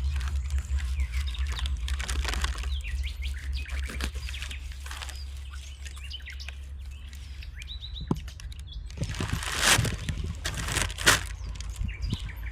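Small forest birds chirping in short, high calls, over a steady low rumble. Two louder, brief rustling bursts come near the end.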